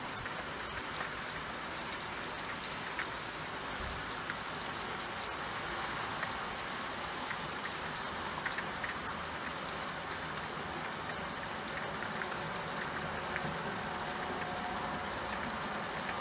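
Steady rain falling, with many individual drops ticking at random.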